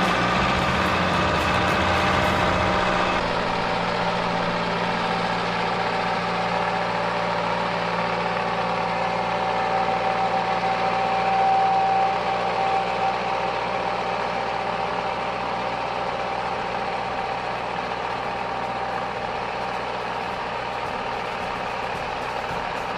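A machine's engine running steadily, its low rumble dropping about three seconds in.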